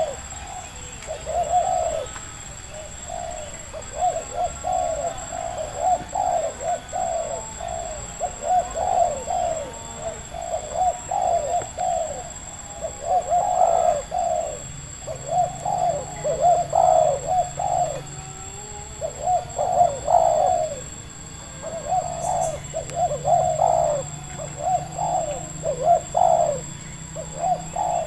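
Spotted doves (tekukur) cooing, one phrase after another with hardly a pause, sometimes overlapping as if two birds call together.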